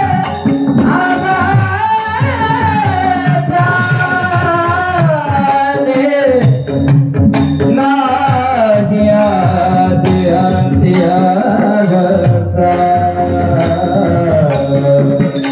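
Marathi devotional kirtan music: a singer holds a long, wordless melodic passage that glides up and down, over a steady drone. Drums and evenly spaced cymbal-like ticks keep the beat.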